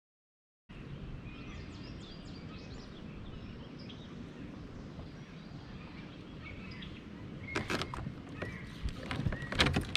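Open-air ambience with small birds chirping over a low steady rumble, after a brief moment of dead silence at the start. From about seven and a half seconds in, a run of sharp clicks and knocks.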